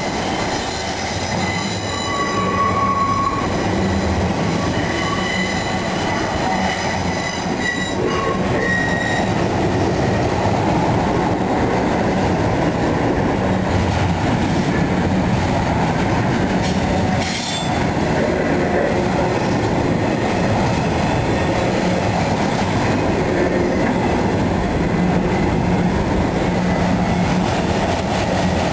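Intermodal freight cars rolling past on steel rails: a steady rumble of wheels and trucks, with high-pitched wheel squeal through roughly the first nine seconds.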